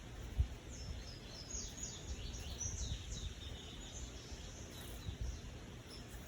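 A bird chirping: a quick run of short, high, falling chirps for a few seconds, fading out about two-thirds of the way through, over a low rumble with a few dull thumps.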